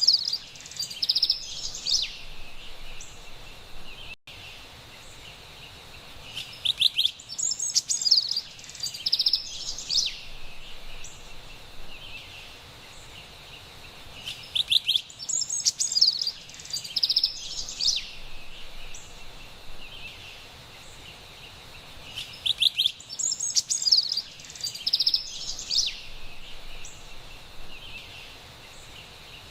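Carolina wren singing, with a burst of quick repeated song phrases about every eight seconds: four bouts, each about three seconds long. A faint steady high hiss of forest ambience lies between them.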